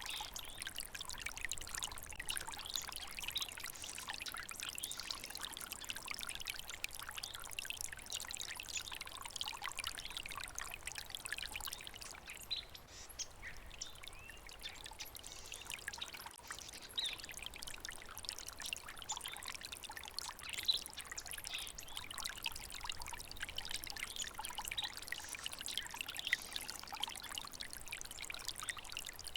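Flowing stream of water babbling and trickling steadily, a continuous splashy rush full of small bright splashes.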